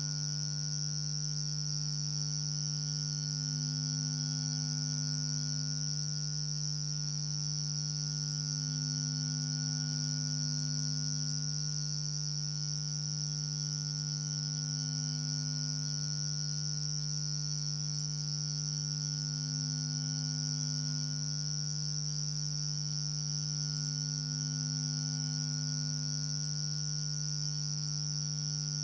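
A steady, unchanging buzz: a low hum with a high, hissy whine above it that does not vary.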